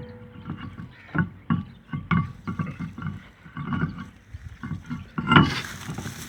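Irregular knocks and clanks, with a louder rushing, scraping burst about five seconds in.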